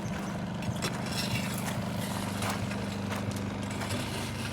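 A small engine running steadily with an even hum, with scattered light clicks and taps over it.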